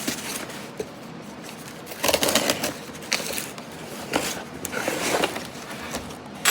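Cardboard box and its packaging being opened and handled: rustling and scraping in a few short bursts, about two seconds in, around four and five seconds, and a sharper knock at the end.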